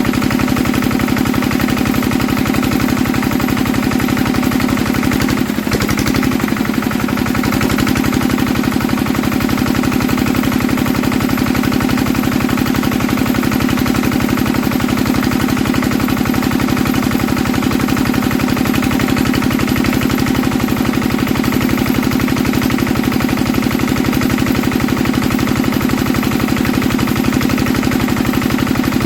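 Old Enfield stationary diesel engine running steadily, a rapid even beat of firing strokes.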